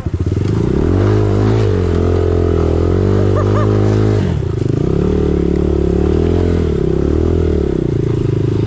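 Dirt bike engine revving under throttle while riding through a dip and up the other side. Its pitch rises about a second in and holds, drops briefly near four seconds, then rises and holds again.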